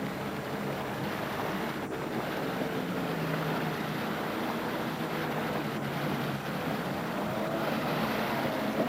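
A jet ski's engine running steadily over rushing water and wind noise, its pitch wavering up and down near the end.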